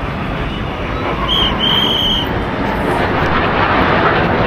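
Rushing jet noise from the Surya Kiran display jets passing over the seafront, swelling louder in the second half. A short, high whistle sounds twice a little over a second in.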